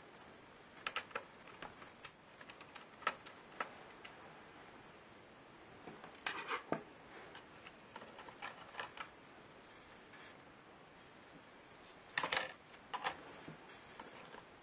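Irregular small clicks and taps, some single and some in quick clusters, from handling a Lenovo Y570 laptop and its small parts during disassembly.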